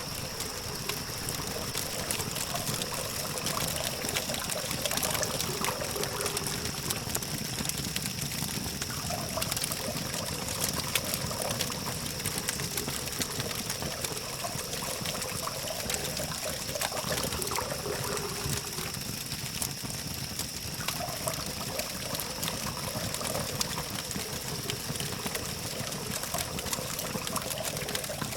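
Campfire crackling steadily with many small pops, over a low hum of distant traffic and a steady high-pitched tone.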